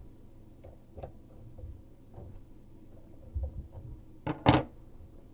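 Hand tools working on a faucet supply line under a bathroom vanity: scattered small clicks and knocks, then a short, loud clatter about four and a half seconds in.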